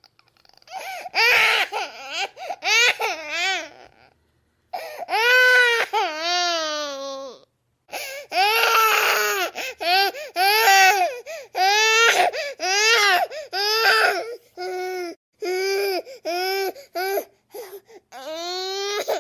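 A baby crying in a run of high-pitched wails, each rising and then falling in pitch, broken by short catches of breath, with brief pauses about four seconds in and again near eight seconds.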